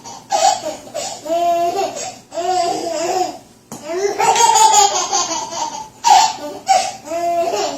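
A small child laughing hard and high-pitched in several bouts, with short breaks between them.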